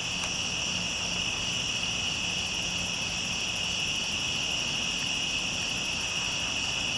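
Steady night chorus of insects such as crickets, a constant high shrill trilling, with a faint low hum underneath.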